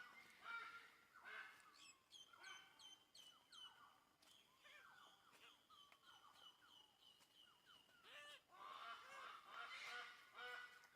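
Birds-of-paradise calling: bursts of rapid, repeated calls at the start and again about eight seconds in, with thinner, higher calls and a steady high note in between.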